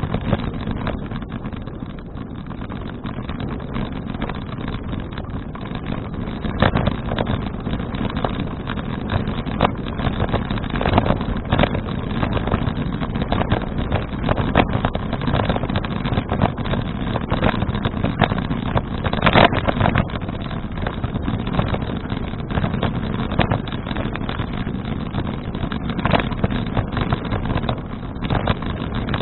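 Wind buffeting an action camera's microphone during a bicycle ride, a steady low rumble broken by irregular knocks and rattles.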